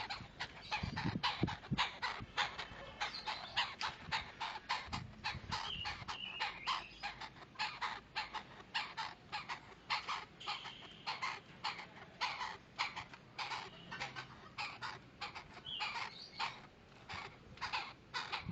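Chinese francolin calling continuously: a rapid run of short, harsh notes, several a second.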